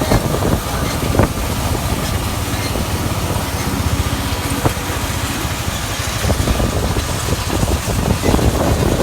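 Farm machinery engine running steadily, a constant low rumble with a noisy hiss over it.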